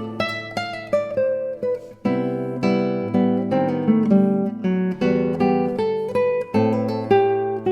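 Background music: a classical guitar playing plucked notes and chords.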